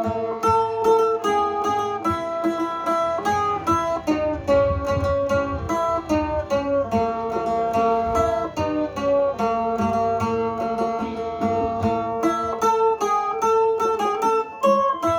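A sueng, the northern Thai plucked lute, playing a quick picked melody of many separate notes.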